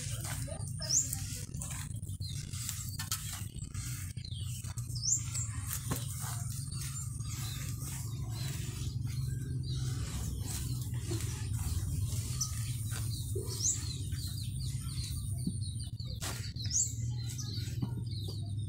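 Small birds chirping now and then in the background, with a quick run of short chirps past the middle, over a steady low hum. A few faint clicks are scattered through it.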